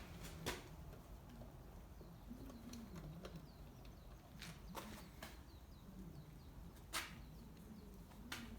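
Quiet ambience with a bird cooing softly in a low, wavering voice and a few faint chirps, broken by several light clicks.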